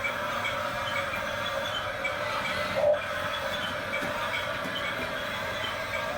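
Small electric motors and plastic gearboxes of a Huina RC construction toy whirring steadily, with one brief knock about three seconds in.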